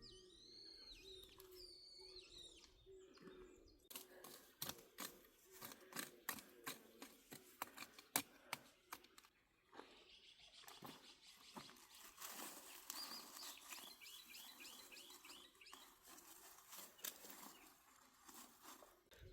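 Faint wild birdsong: curved whistled calls in the first couple of seconds, then a run of quick repeated high notes a little past the middle. Scattered sharp clicks and ticks fall between about four and ten seconds in.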